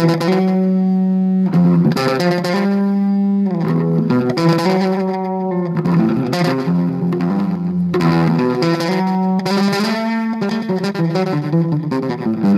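Electric bass guitar played through an amplifier with effects, long held notes that change pitch every second or two.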